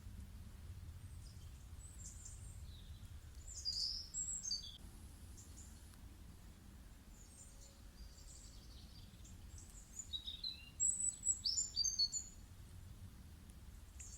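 Songbirds chirping and calling in two short bursts of quick high phrases, one about four seconds in and a longer one near ten to twelve seconds in, over a faint low steady background noise.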